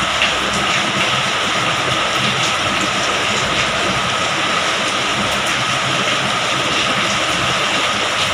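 Heavy rain falling, a loud steady hiss with a faint steady tone running under it.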